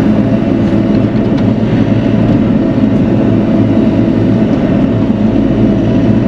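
Bobcat E42 mini excavator's diesel engine running steadily.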